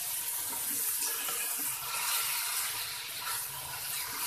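Raw chicken strips sizzling in hot oil with fried onion and garlic in a steel kadai, stirred with a metal slotted spoon: a steady hiss.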